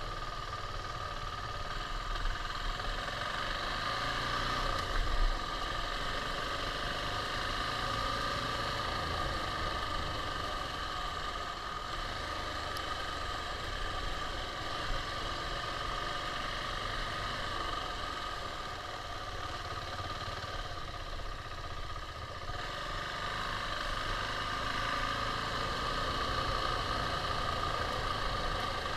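KTM 690's single-cylinder engine running steadily, easing off around two-thirds of the way through and picking up again.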